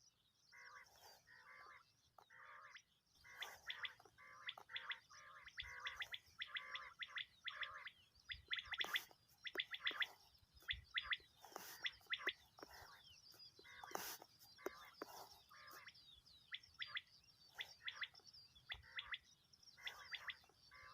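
Common quail calling: a dense, faint run of short chirping calls, with a few sharp clicks standing out.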